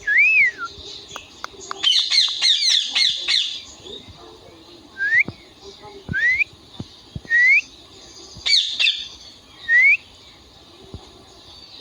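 Indian ringneck parrot calling. It opens with one short whistle that rises and falls, then gives a burst of rapid harsh chattering squawks. After that come four short upward-sweeping whistles about a second apart, with one more harsh squawk between them.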